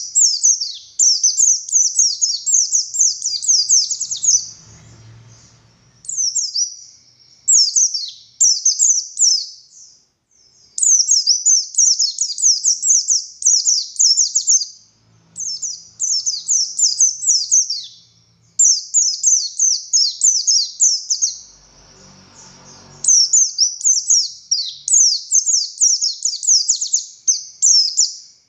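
Buxtoni white-eye (pleci) singing vigorously in long runs of rapid, high-pitched twittering notes. The phrases last a few seconds each and are broken by short pauses.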